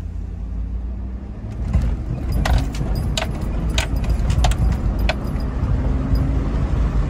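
A truck's engine and road noise heard from inside the cab as it drives off and picks up speed. It gets louder from about a second and a half in, with a slight rise in engine pitch near the end. A run of sharp metallic clicks and jingles comes through the middle.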